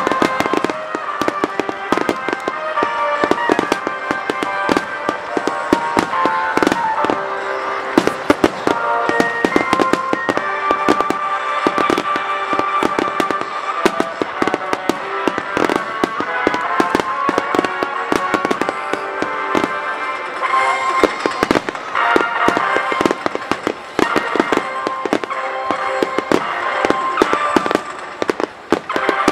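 Aerial fireworks bursting in rapid, dense succession, many bangs and crackles a second, with music playing underneath.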